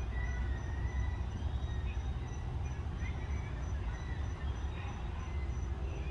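Outdoor evening ambience dominated by a steady low rumble, with scattered faint bird chirps and a high, evenly pulsing insect-like trill throughout.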